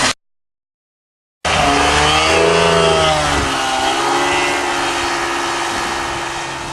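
An engine running loud, with a sudden dropout right at the start. It comes back with its pitch swinging up and down, then slowly fades away.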